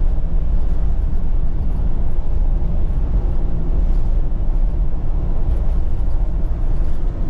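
Steady low rumble of a vehicle on the move, engine and road noise running evenly.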